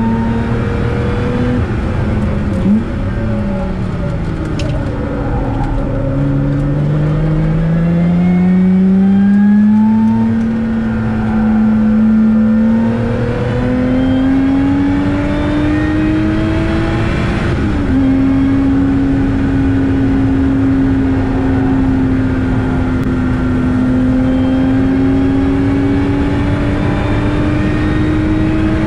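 Lotus Exige S V6's supercharged 3.5-litre V6 heard from inside the cabin, driven hard on track. The revs fall for a corner a few seconds in, then climb steadily for a long pull. A little past halfway the pitch drops suddenly at an upshift, and the engine pulls again with the revs rising slowly. Tyre and wind noise run underneath.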